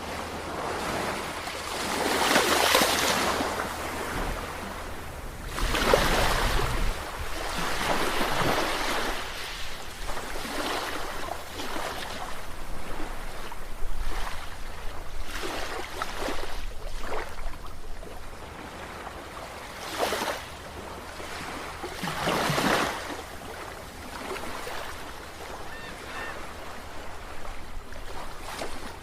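Ocean surf: waves breaking and washing in irregular surges every few seconds, over a faint steady low hum.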